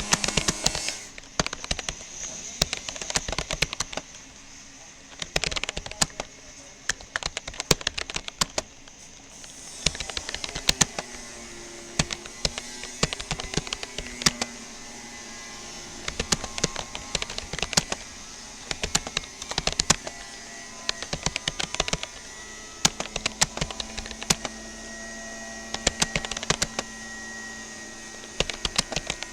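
Keystrokes on a Rapoo computer keyboard, typed in quick bursts with short pauses between them. A brief rushing noise fills the first second.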